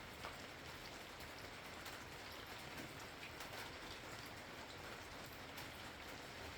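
Steady rain falling, with many small drops pattering and dripping on surfaces.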